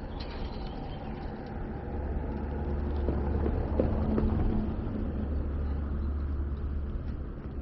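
Low engine rumble of a passing motor vehicle over general outdoor street noise, growing louder about two seconds in and holding steady.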